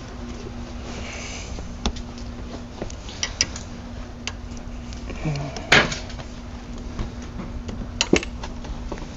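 Metal hand tools clinking and clanking as they are handled, with scattered sharp clicks and one louder clank past the middle, over a steady low hum.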